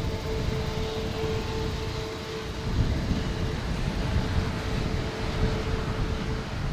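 Airbus A330-200 airliner on approach, its Rolls-Royce Trent 700 engines giving a steady drone with a constant whine, mixed with a gusty low rumble from wind on the microphone.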